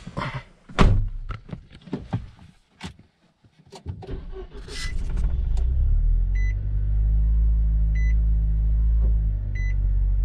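Knocks and clicks with one loud thump, then about five seconds in the Nissan Juke Nismo RS's 1.6-litre turbocharged four-cylinder starts and settles into a steady idle. Three evenly spaced dashboard warning chimes sound over the idle.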